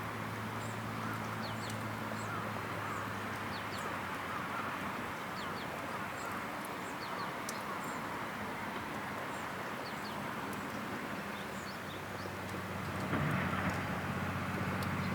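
Outdoor ambience: scattered short, high bird chirps over a steady noisy background and a low hum, which grows louder for a couple of seconds near the end.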